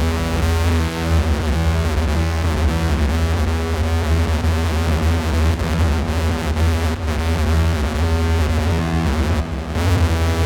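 Novation Circuit groovebox playing an experimental, noisy synth drone from the Howl preset pack: a heavy sustained low drone under a thick, shifting stack of pitched tones, thinning briefly near the end.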